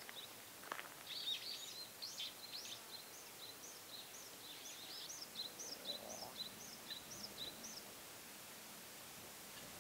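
Small birds giving a quick series of short, high chirps over a steady faint outdoor hiss. The chirping stops about three-quarters of the way through.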